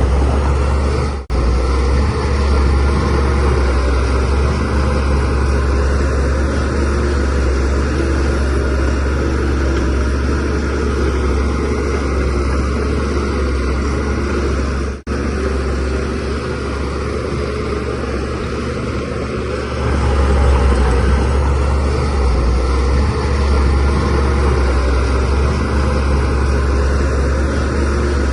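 DH17C3PRO bulldozer's diesel engine running steadily under working load, a deep continuous rumble that grows a little louder about twenty seconds in. The sound cuts out for an instant twice, about a second in and about halfway through.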